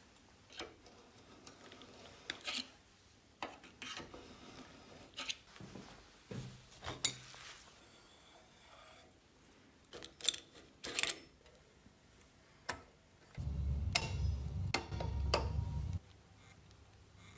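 Hand work on parts: scattered clicks, knocks and rubbing, then a low mechanical rumble for about two and a half seconds that cuts off suddenly.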